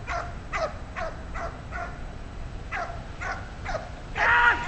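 A dog barking and yelping in quick, excited bursts, about two to three a second, each falling in pitch. About four seconds in comes one louder, longer call that holds its pitch and then drops.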